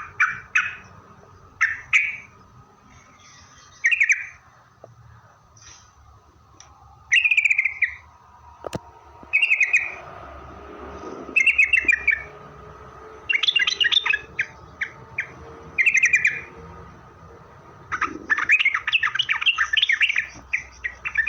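Yellow-vented bulbul (trucukan) singing: short warbled phrases about every two seconds, turning into a longer run of rapid chattering notes in the last few seconds.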